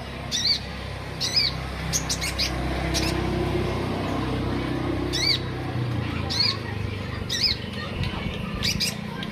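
Konin songbird calling in full voice: short, sharp, high chirps, about ten of them, some single and some in quick clusters, over a steady low background rumble.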